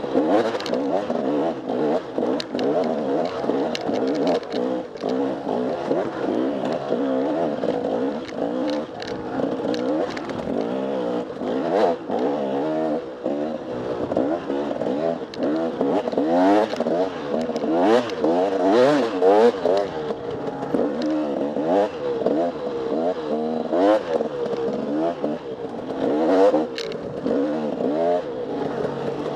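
Enduro dirt bike engine revving up and down with the throttle, its pitch rising and falling every second or so, with frequent sharp clacks and knocks.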